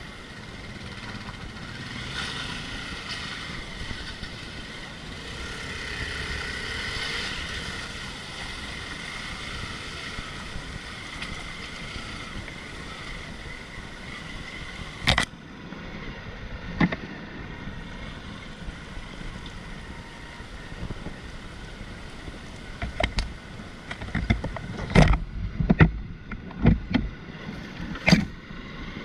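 Off-road motorcycle engine running steadily, swelling briefly several seconds in, with sharp knocks about halfway through and a cluster of loud thumps near the end.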